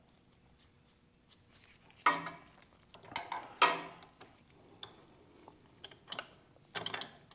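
Metal hand tools clinking and clattering as driver bits are handled and tried on a fitting. Several sharp clanks come about two seconds, three and a half seconds and seven seconds in, with light ticks between.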